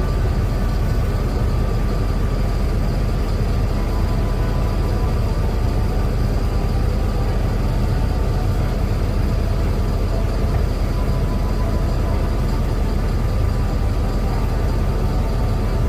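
Diesel engine of a Mercedes-Benz OF-1721L BlueTec 6 city bus running steadily, with a constant heavy low drone and a few faint steady whining tones above it.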